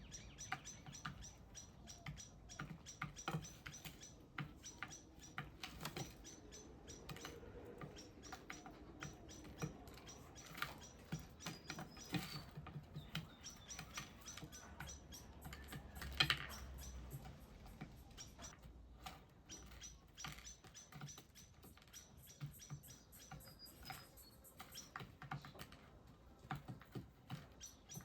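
Faint, quick irregular tapping, clicking and scratching of small birds pecking and hopping, with a few short high chirps.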